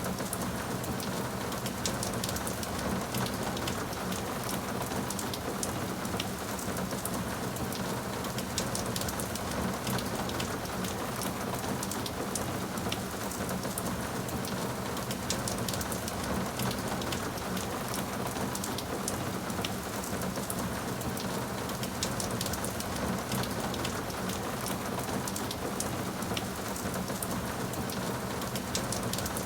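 Steady heavy rain, with a constant hiss and many fine drop ticks.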